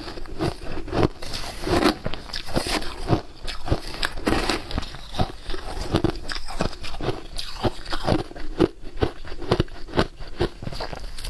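Close-up crunching of shaved ice being bitten and chewed, many irregular crunches a second.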